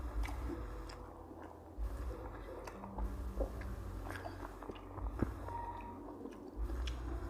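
A person chewing and biting food close to the microphone, with low thuds of the jaw about once a second and small wet clicks.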